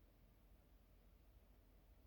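Near silence: faint steady background hum.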